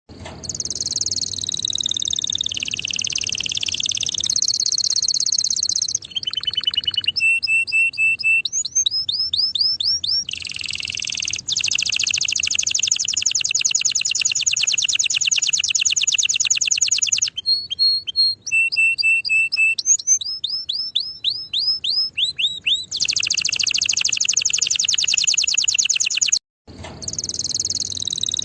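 Domestic canary singing a long, continuous song: fast rolling trills alternating with runs of short, quickly repeated falling whistled notes. The song breaks off for a moment near the end, then picks up again with another trill.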